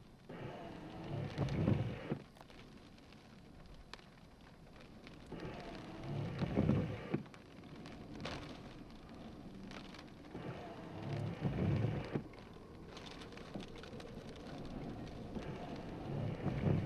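Rain on a storm, with a louder rushing swell about every five seconds, four times over.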